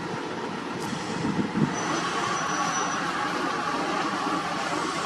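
Heavy road-paving equipment running steadily, a dense mechanical din. A sharp click comes just under a second in, and a thin high squeal follows about two seconds in.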